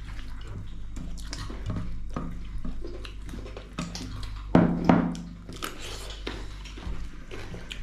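Close-up eating sounds: chewing and smacking of goat meat curry and rice, with small clicks of mouth and dishes, and two louder sharp sounds close together about four and a half seconds in.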